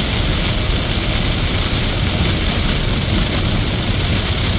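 Heavy rain hitting a car and tyres hissing on a flooded highway, heard from inside the cabin as a steady loud noise, with the wipers on max.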